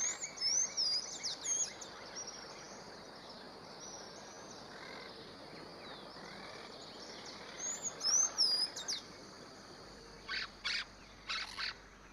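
Birds calling in high, whistled chirps that slide up and down, in two short bouts, over a steady outdoor hiss. A few short, harsher calls follow near the end.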